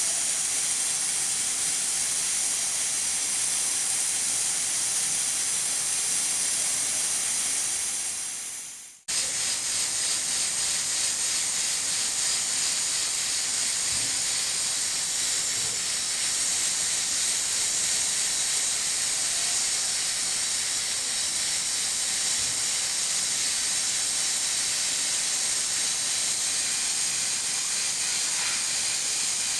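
Pressure cooker letting off steam past its weighted valve in a steady high hiss. About nine seconds in, the hiss fades out quickly and cuts straight back in.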